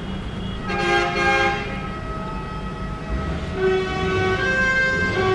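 Multi-tone vehicle air horn sounding twice: a short blast about a second in, then a longer held blast from about three and a half seconds, over a steady low engine rumble.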